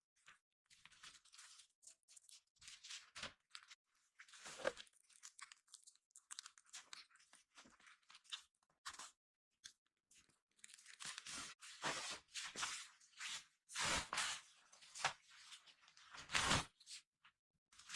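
Snow crunching in an irregular series of crunches, growing louder and more frequent about two-thirds of the way in.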